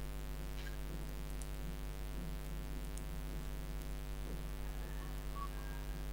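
Steady electrical mains hum, with a few faint, brief incidental sounds now and then.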